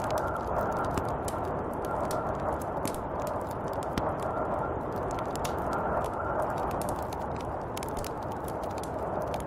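Snowstorm wind blowing steadily, with a faint whistle coming and going and many small sharp ticks scattered through it.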